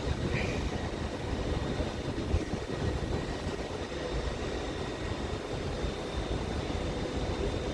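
Passenger train running in the station: a steady low rumble with faint high whining tones over it.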